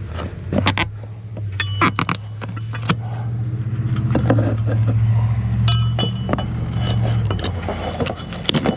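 Hand-tool work prying a nail out of wooden siding, with repeated metallic clinks and knocks. A steady low hum runs underneath, swelling toward the middle and fading out a little before the end.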